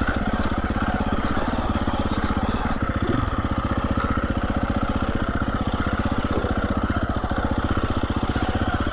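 Single-cylinder four-stroke engine of a 2020 Husqvarna 350 FE dirt bike running steadily at low revs, a fast, even firing rhythm with no revving.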